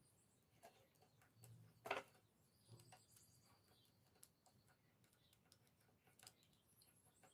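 Faint clicks and small handling noises, with one sharper click about two seconds in, as single-strand copper fuse wire is fitted into a rewireable fuse carrier.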